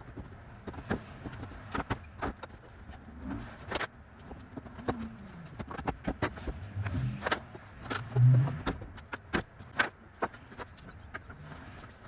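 Irregular knocks, taps and clatter of timber decking being pried up and worked on by hand, with a heavier low thump about eight seconds in.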